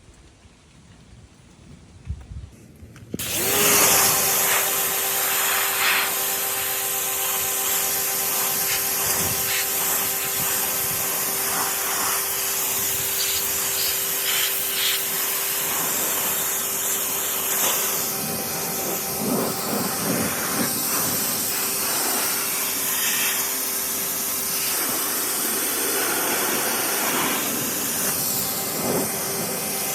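A pressure washer starts up about three seconds in and runs steadily with a constant whine, its water jet hissing on the golf cart's body.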